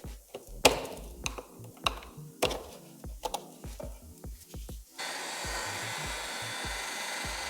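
Sharp knocks and clicks of hand work on a part, then about five seconds in a power tool starts and runs with a steady whir.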